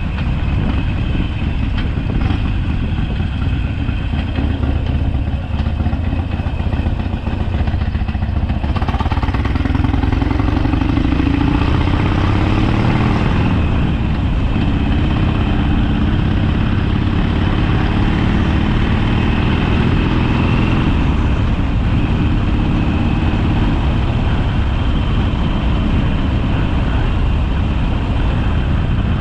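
Harley-Davidson Sportster's V-twin engine running on the road. About nine seconds in it gets louder and its pitch rises as the bike accelerates, and it rises again a few seconds later.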